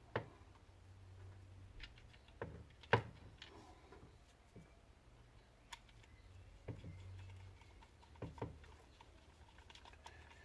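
Scattered light clicks and taps of small grinder parts being handled and fitted during reassembly, irregular and spaced out, the sharpest about three seconds in. A faint low hum comes and goes underneath.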